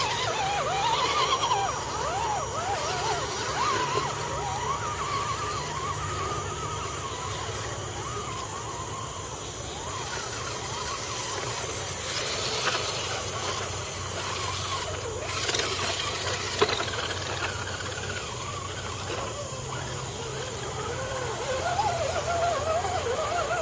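Electric motors of RC trucks whining, their pitch rising and falling quickly as the throttle is blipped, busiest at the start and again near the end. A single sharp knock about two-thirds of the way through.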